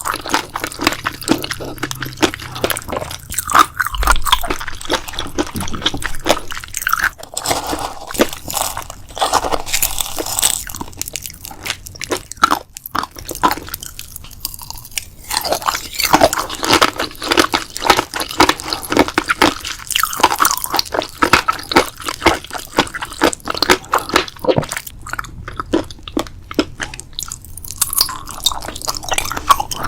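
Close-miked eating: crunchy food being bitten and chewed, a dense run of crackling crunches throughout.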